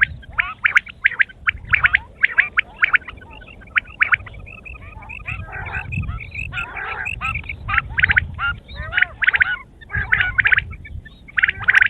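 Quails calling: a steady run of short, rapid rattling calls one after another, with several birds overlapping around the middle.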